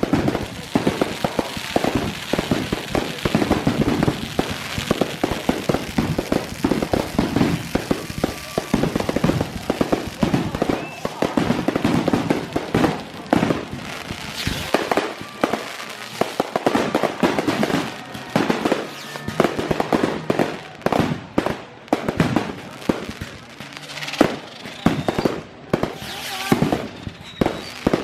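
Aerial fireworks going off in quick succession, a dense barrage of bangs and crackling, thinning later into separate heavier booms.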